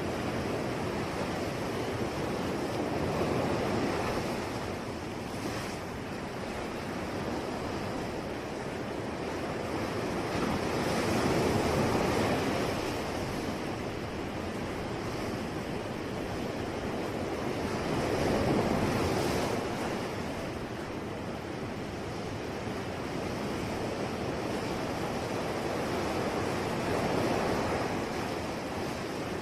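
Ocean waves washing onto the shore in slow surges, each swell rising and falling about every seven to eight seconds.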